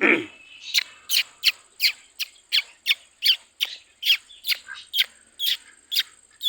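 A bird calling in a rapid series of short, sharp chirps, each dropping steeply in pitch, about two and a half a second, over a thin steady high whine. A single lower downward swoop comes right at the start.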